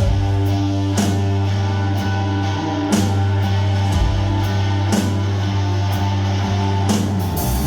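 Live rock band playing loud: distorted electric guitars over a sustained bass, with drum and cymbal hits about once a second.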